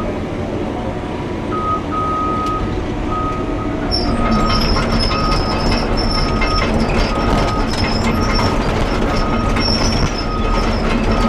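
Cat 320 hydraulic excavator running and travelling on its steel tracks, with a steady engine rumble and a high tone that keeps cutting on and off, more than once a second. It gets louder about four seconds in.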